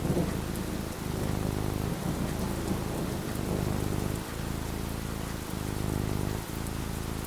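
Steady rainfall with a low rumble of thunder in the first few seconds.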